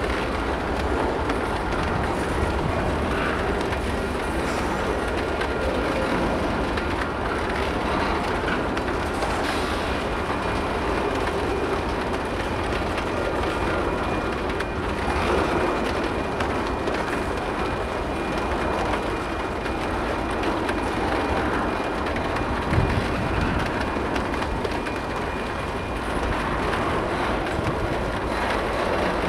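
Freight train of tank cars rolling slowly past, wheels clacking over the rail joints in a steady rumble, with a faint thin wheel squeal through the middle and one sharp knock about three-quarters of the way in.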